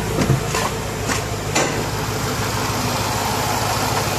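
Range Rover Sport SVR's supercharged V8 idling steadily with the AC compressor engaged, with a few brief clicks in the first two seconds.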